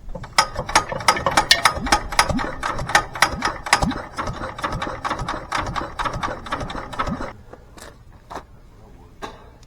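McCormick-Deering LB stationary engine clattering mechanically, a rapid run of sharp metallic clicks, about seven a second, that stops abruptly about seven seconds in, followed by a few scattered clicks.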